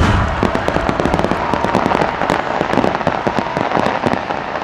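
Aerial fireworks: a sharp burst right at the start, followed by a dense run of rapid crackling pops from the stars, thinning out near the end.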